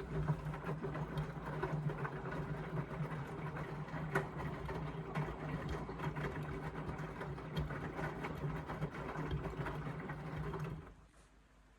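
Indesit washing machine's motor turning the drum during the wash, a steady hum with scattered clicks and knocks from the load, which stops suddenly about eleven seconds in as the drum pauses.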